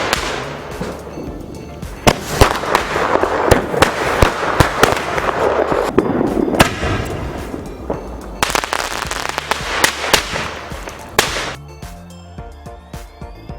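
Diwali firecrackers going off: a rapid series of sharp bangs over continuous crackling, with background music underneath. The bangs stop near the end and electronic music continues alone.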